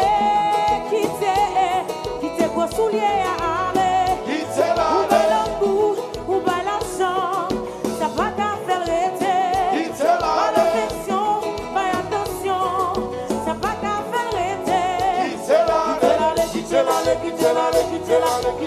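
Live band music with a lead singer, a wavering vocal line over a steady dance beat with bass and percussion.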